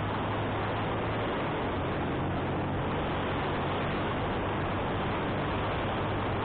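Wind rushing over the microphone of a motorcycle under way, with the motorcycle's engine running as a steady low hum beneath it.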